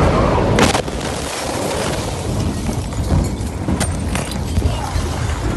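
Blast of a huge explosion: a loud roar that drops back after less than a second into a sustained rumble with scattered sharp cracks.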